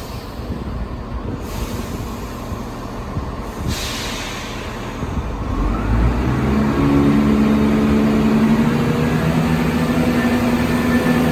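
Diesel train at a station platform: a low rumble with hiss, then about six seconds in a loud, steady engine note with several held tones comes in as the train's diesel engine powers up.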